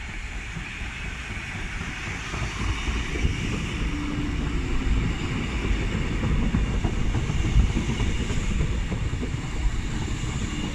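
Hamburg S-Bahn class 472 electric multiple unit pulling into the station and running past at close range: a steady rumble of wheels on rails that grows louder from about two seconds in as the cars go by.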